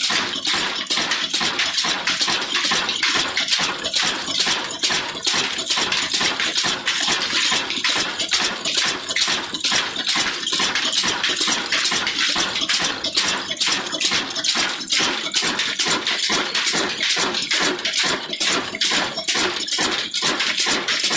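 Old Ruston Hornsby stationary engine running steadily at slow speed, its regular knocking beat coming about three to four times a second.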